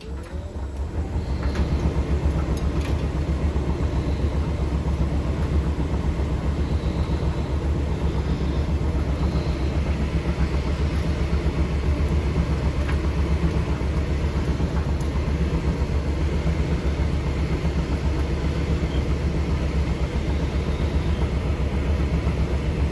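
Hotpoint SUTCD97 condenser tumble dryer starting up. Its motor winds up with a rising hum, then settles into a loud, steady rumble as the drum turns, with the odd faint knock from the tumbling load.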